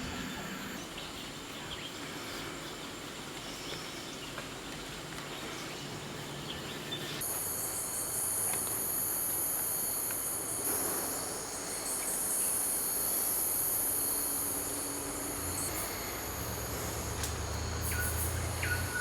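Forest insects calling in a steady high-pitched chorus that grows much louder and shriller about a third of the way in. A low rumble joins near the end.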